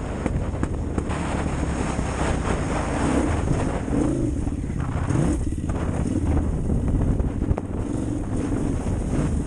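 KTM 950 Adventure's 942 cc V-twin engine running under hard load, its revs rising and falling, with wind noise on the bike-mounted microphone.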